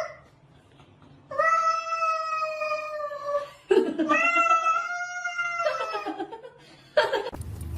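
A cat giving two long, drawn-out meows of about two seconds each, then a shorter falling call and a brief sharp one near the end.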